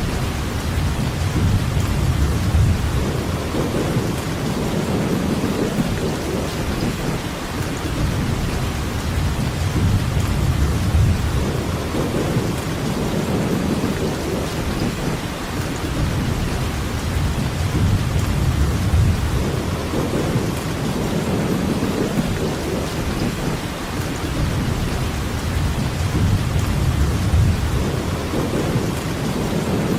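Steady heavy rainfall hissing, with low rumbles of distant thunder swelling and fading every several seconds.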